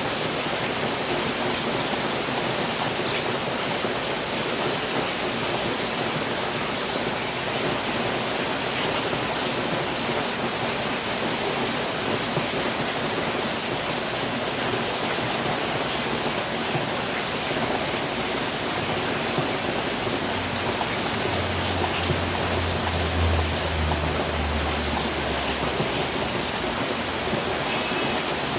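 Steady rain falling on a roof, an even hiss with no break. A faint low hum comes in for a few seconds past the middle.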